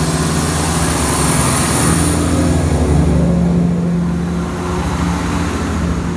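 Two-car diesel multiple unit passing along the platform, its underfloor diesel engines running steadily with a thin high whine. The hiss fades toward the end as the train moves away.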